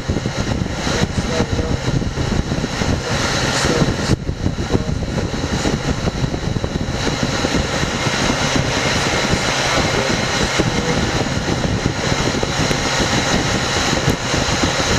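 Walk-in freezer refrigeration unit running steadily, its fan started and the system pulling down again after a defrost.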